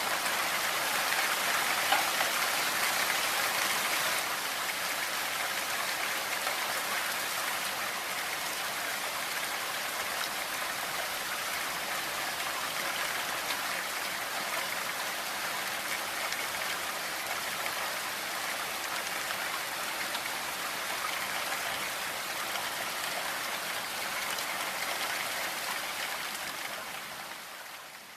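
Steady rain, a dense hiss of many drops, fading out over the last few seconds.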